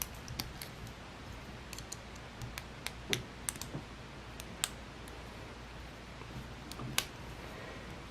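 Small plastic LEGO Technic pieces clicking and tapping as they are handled and pushed together: a few light, irregular clicks, the clearest near the middle and about a second before the end.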